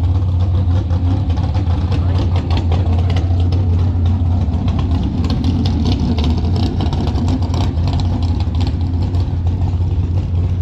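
A car engine running steadily: a loud, constant low drone that holds without a break.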